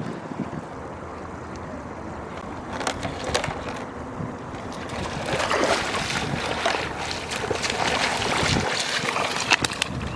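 Rushing noise of wind on the microphone and water, louder in the second half, with scattered short clicks.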